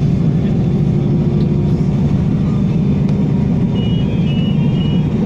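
Steady low rumble of a W6-class tram heard from inside its cabin, with three short high beeps near the end.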